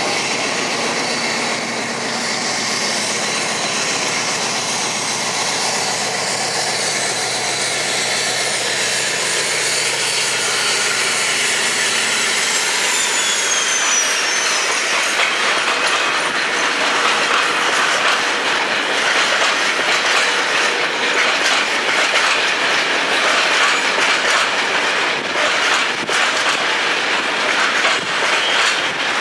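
Class 56 diesel locomotive 56311, with its Ruston-Paxman V16 engine, running past at the head of a coal train. After about a dozen seconds its engine sound gives way to the clickety-clack of the coal wagons' wheels over rail joints and points. A falling wheel squeal comes around the middle.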